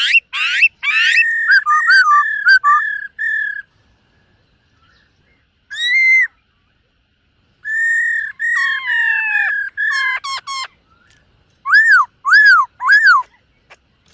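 Black-throated laughingthrush singing: loud, clear whistled phrases with rapid sweeps, broken by two short pauses, and ending in three arched, slurred notes.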